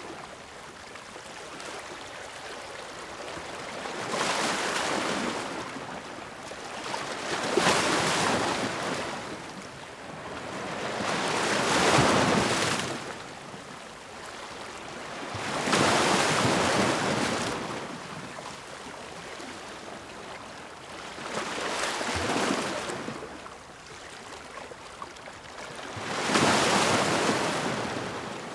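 Sea waves breaking against rocks: six surges of rushing noise a few seconds apart, each swelling and fading, with a softer steady wash between them.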